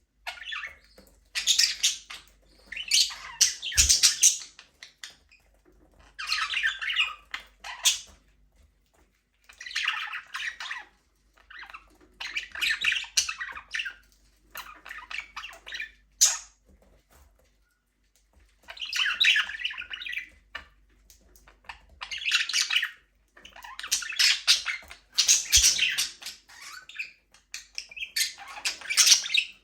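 Budgerigars chattering and squawking in bursts of a second or two, with short pauses between them.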